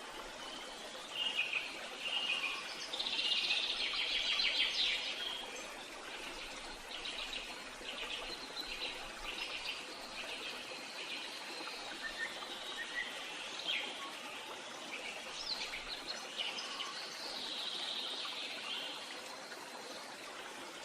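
Birds chirping and trilling over a steady background hiss of flowing water, loudest from about one to five seconds in and again around fifteen to nineteen seconds.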